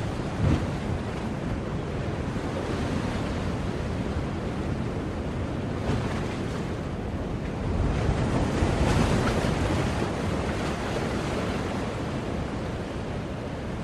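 Sea waves washing onto the shore in a continuous rush, with a wave swelling louder about eight seconds in.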